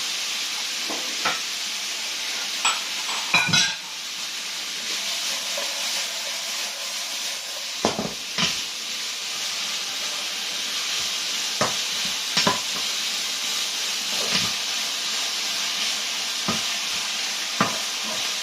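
Meat and vegetables sizzling in a hot wok as they are stir-fried, with a steady hiss and the scrape and knock of the spatula against the pan every second or two.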